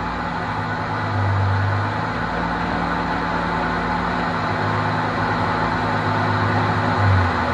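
BMW race car's engine idling in neutral, heard from inside the cockpit, a steady low drone that grows stronger and weaker a few times.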